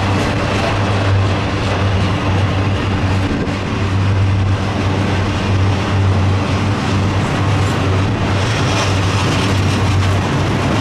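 Intermodal freight train cars rolling past close by: a loud, steady rumble of steel wheels on rail.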